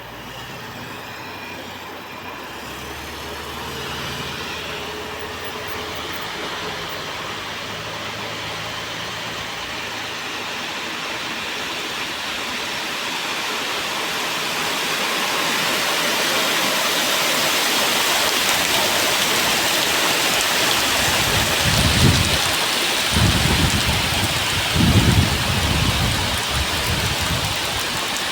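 Heavy rain sweeping in, its hiss building steadily louder over some fifteen seconds into a dense, even downpour. Several low rumbles break in near the end.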